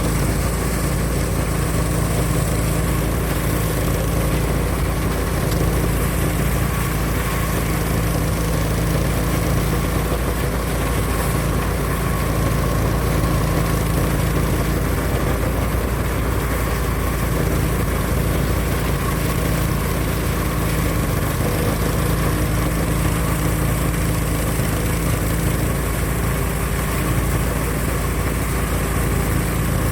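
Small engine of a rice threshing machine running steadily at an even speed.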